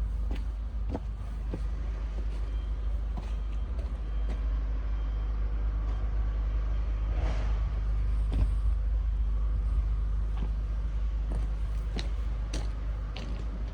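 Komatsu PC160 excavator's diesel engine running steadily, with scattered light clicks and a short hiss about halfway through.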